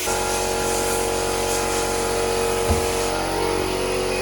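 A vehicle engine running steadily at an even speed, with one short thump about two and a half seconds in.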